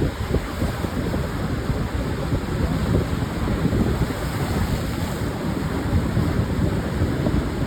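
Pacific surf washing continuously onto a sandy beach, a steady dense rush of water with no single distinct wave crash. Wind buffets the microphone, adding an uneven low rumble.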